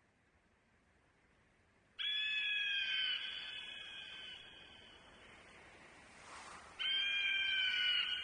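An animal call heard twice: a sudden, high-pitched cry held for about a second that then fades away, with the same call again about five seconds later.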